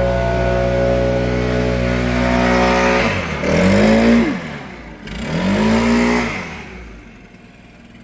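Stihl Magnum BR 800C backpack leaf blower's two-stroke engine at full throttle. About three seconds in it is throttled down and revved back up twice, then drops to idle near the end.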